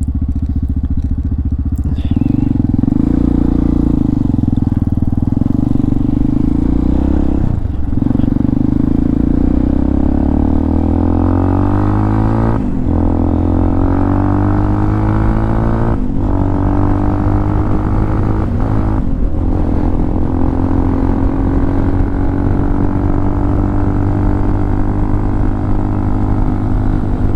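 Hawk 250's single-cylinder engine pulling the motorcycle up through the gears. The pitch rises in each gear and drops briefly at the shifts, about 8, 13, 16 and 19 seconds in, then holds a steadier cruise.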